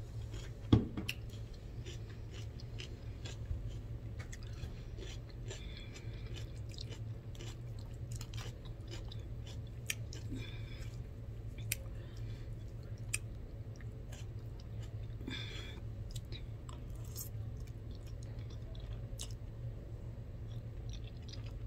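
Close-up eating sounds: a person chewing a mouthful of spaghetti and salad, with scattered small clicks of cutlery and dishes and one sharper knock about a second in, over a steady low hum.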